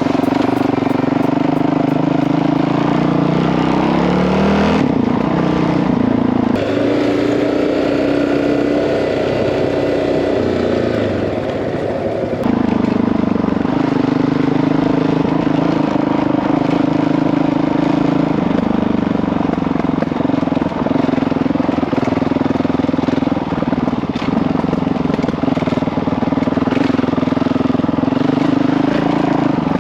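Honda CRF dirt bike's single-cylinder four-stroke engine running under way, its pitch rising and falling as the throttle and gears change. It eases off for a stretch around ten to twelve seconds in, then picks back up.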